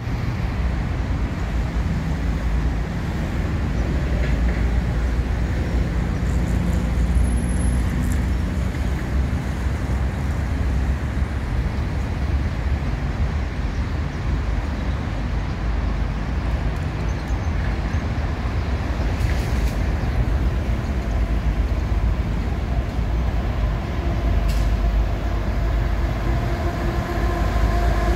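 Steady low rumble of an approaching passenger train hauled by an EP1 electric locomotive, growing a little louder near the end.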